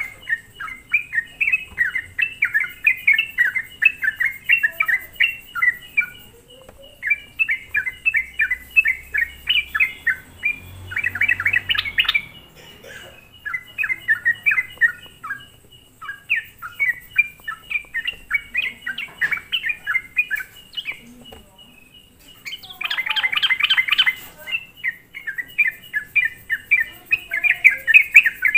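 Sooty-headed bulbul (trucuk) singing a fast, chattering lure song: rapid runs of bright chirps in phrases with short pauses, and two louder, denser bursts of chatter.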